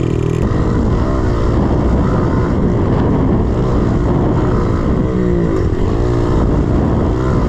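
110cc pit bike's single-cylinder four-stroke engine being ridden hard, its pitch rising and falling over and over as the throttle is opened and closed between shifts and corners. Wind rushes over the microphone.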